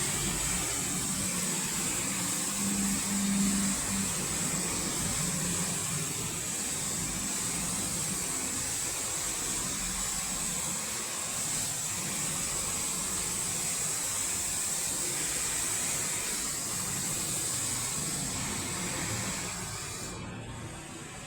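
Robotic car wash machine running: a steady hiss with a low motor hum underneath, dropping in level near the end.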